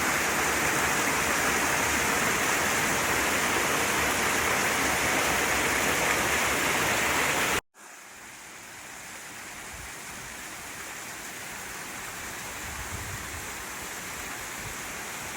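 Steady, dense rush of falling water from a waterfall. About halfway through it cuts off abruptly, and a much quieter rush of water fades back in and slowly grows.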